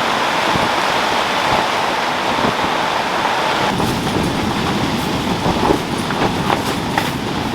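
Steady rain, with sharp individual drop ticks joining in from about four seconds in.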